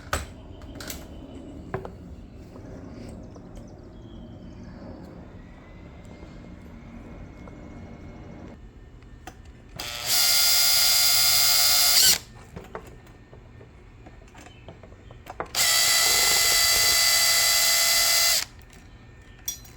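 A power drill running in two bursts, about two and three seconds long, on the screws that hold an ignition coil pack, with quieter handling of parts before them.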